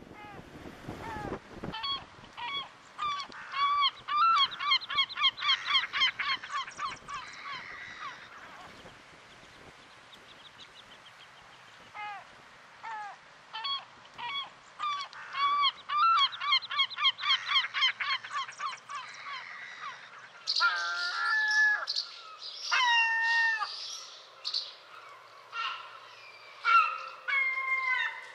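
Birds calling loudly: two long runs of fast repeated calls, then, about two-thirds of the way in, drawn-out wavering calls that fall in pitch.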